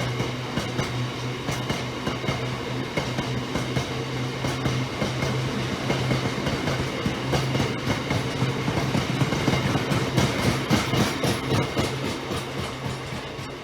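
A train passing at track level, its wheels clicking rhythmically over the rail joints under a steady hum. It is loudest about ten seconds in and begins to fade near the end.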